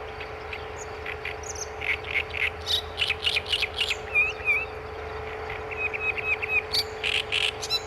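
Great reed warbler singing: a rapid run of short, harsh, chattering notes in repeated phrases, with a few whistled notes mixed in, over a steady low hum.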